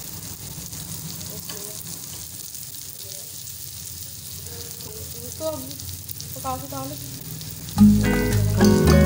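Stuffed chana dal paratha frying in ghee on a hot tawa, a steady sizzle. Background music comes in loudly near the end.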